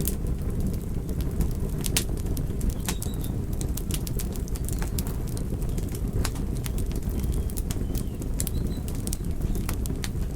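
Wood fire burning in a fireplace: a steady low rumble with sharp, irregular crackles and pops from the logs, several a second at times.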